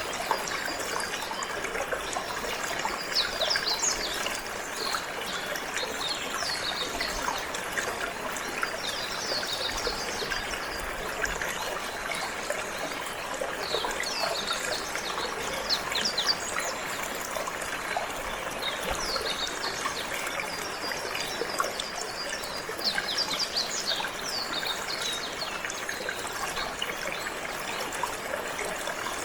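Water trickling and running steadily, with a canary singing over it in repeated bursts of quick, high chirps and trills.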